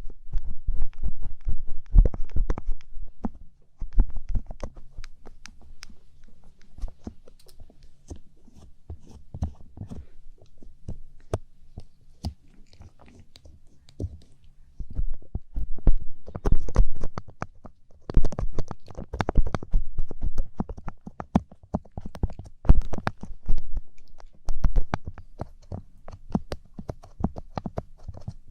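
Ear cleaning with a light-up ear pick: close, dense scraping and scratchy clicks with low thumps, coming in louder spells with quieter stretches between.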